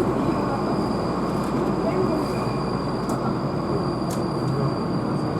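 Keihan electric train running, heard from inside the passenger car: a steady rumble of wheels on rail with a constant high whine, and two faint clicks about three and four seconds in.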